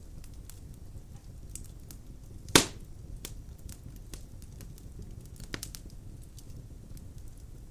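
Wood fire burning in a fireplace: a steady low rumble of flames with scattered small crackles, and one loud sharp pop about two and a half seconds in, a smaller one near five and a half seconds.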